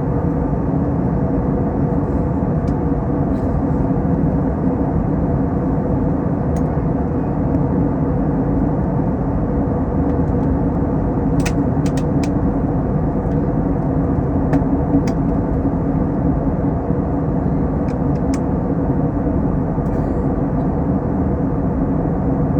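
Steady drone of an Airbus A321 in descent, heard inside the cabin: engine and airflow noise with a low hum, and a few faint clicks about halfway through and again a little later.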